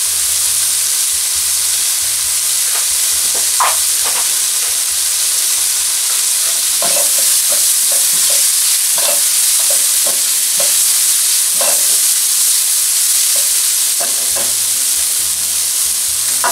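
Chopped onion, carrot and red bell pepper sizzling in oil in a frying pan, stirred with a slotted spoon: a steady hiss with many short scrapes and taps of the spoon against the pan from about three seconds in.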